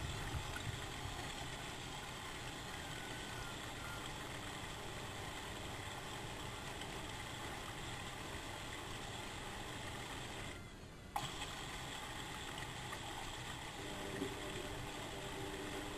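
Bauknecht WA1400 Dolphin washing machine running mid-programme with a steady mechanical hum. The hum cuts out briefly about ten and a half seconds in and comes back with a click, and a few seconds later a second steady humming tone joins in.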